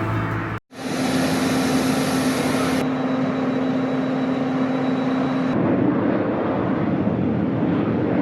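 Steady drone of a Boeing 767 freighter and its ramp equipment at the stand, with a steady hum that drops away about five and a half seconds in.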